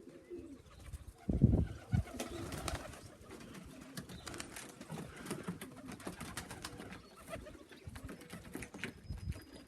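Domestic pigeons cooing on and around the loft, with a couple of loud low thumps about a second and a half in.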